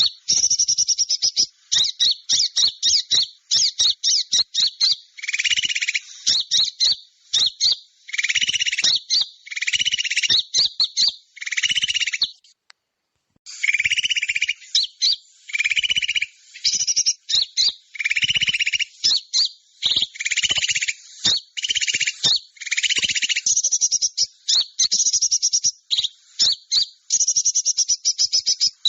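A bird-luring recording of small birds calling: rapid high-pitched chirps and trills in quick runs, mixed with repeated harsh, buzzy scolding calls. The calls break off for about a second near the middle, then resume.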